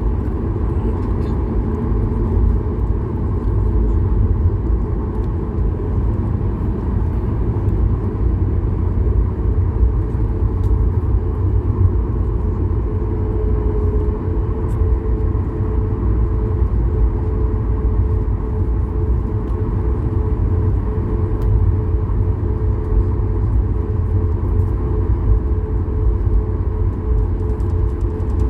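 Boeing 737 MAX cabin noise while taxiing: a steady low rumble from the CFM LEAP-1B engines at low thrust and the airframe rolling, with a faint steady hum coming in about halfway through.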